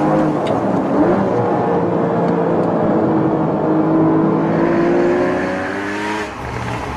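Porsche Cayman GTS's 3.4-litre flat-six engine pulling hard: a brief rise and fall in revs about a second in, then the revs climb steadily for several seconds before dropping near the end as the throttle is lifted.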